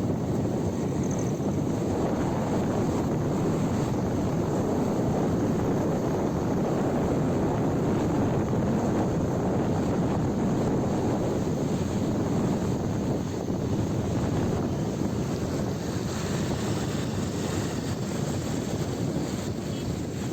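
Steady rush of wind and road noise on a motorcycle moving through city traffic, with no clear engine note standing out.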